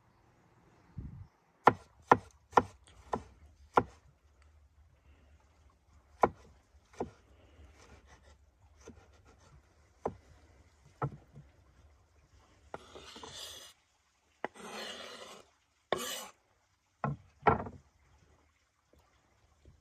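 Sharp knocks on wood at irregular intervals, with a few longer scraping or rubbing sounds about two-thirds of the way in.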